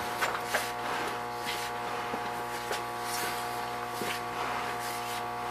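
Steady electrical or machine hum made of several even tones, with a few faint ticks and taps.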